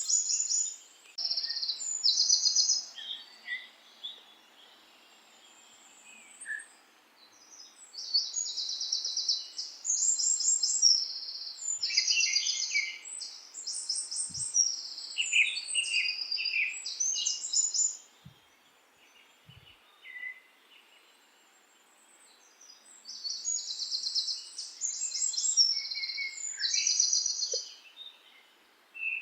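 Songbirds singing in bouts of high, fast trilled and chirped phrases, with pauses of a few seconds between bouts, over a faint steady background hiss.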